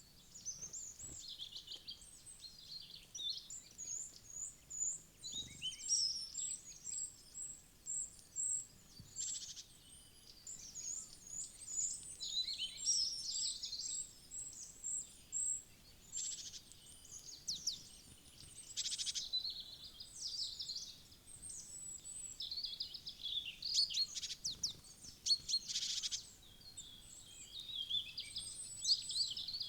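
Several wild songbirds chirping and singing at once, with overlapping twitters and runs of short, evenly repeated high notes.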